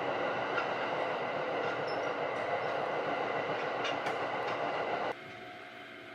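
Running noise of the Sunrise Izumo's 285-series sleeper train heard in the open gangway between cars: a loud, steady rush of wheel and track noise with faint steady high tones and a few clicks. About five seconds in it cuts to a much quieter steady hum from inside the car.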